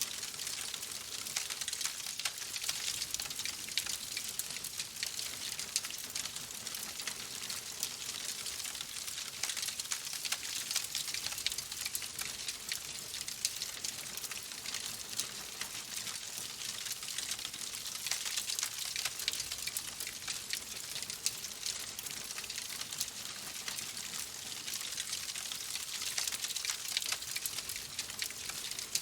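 Wood fire crackling steadily: a dense run of small pops and snaps over a soft hiss, with no single loud crack standing out.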